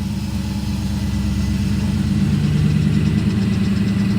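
Tractor engine running steadily with a rapid, even chug.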